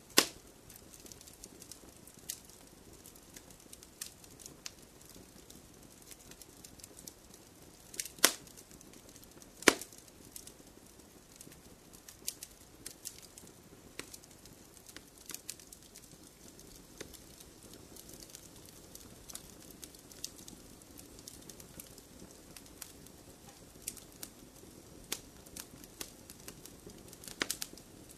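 Wood fire burning in a fireplace: a soft steady hiss with irregular crackles and sharp pops, the loudest two about eight and ten seconds in.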